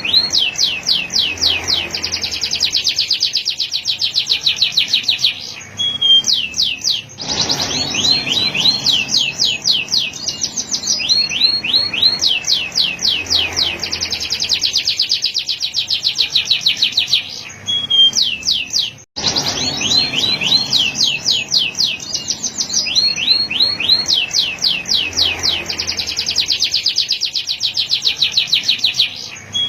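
Male canary singing long phrases of rapid trills, each a fast run of repeated notes sweeping down in pitch, with short pauses between phrases.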